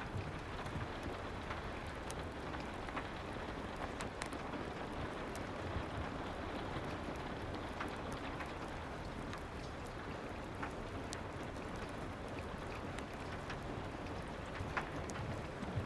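Soft, steady rain ambience mixed with a fireplace: an even hiss with a low rumble, broken by scattered sharp crackles and ticks.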